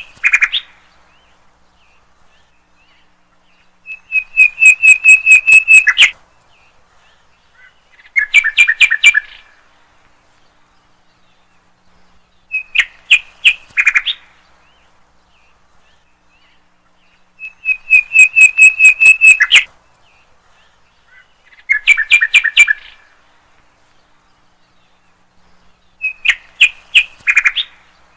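A bird calling in short phrases of rapid, clear whistled notes, one phrase about every four seconds, some phrases longer trills of a dozen notes. The same sequence of phrases repeats, as in a looped recording.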